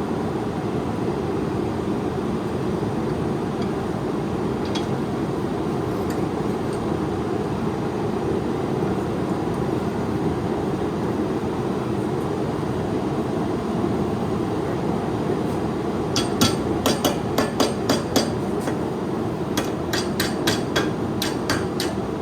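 Hammer lightly tapping a hot 8670 high-carbon steel knife blade to straighten it, in two quick runs of about seven or eight strikes each near the end. A steady rushing noise runs underneath throughout.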